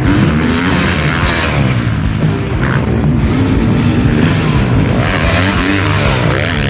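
Dirt bike engines running hard on the track, their pitch climbing and dropping again and again with throttle and gear changes.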